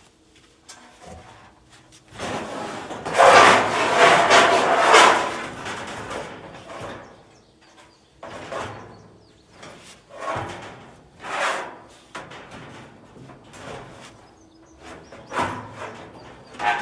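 Dryer parts being handled and slid into place: rubbing and scraping, loudest in a long scrape of a few seconds starting about two seconds in, then several shorter scrapes and bumps.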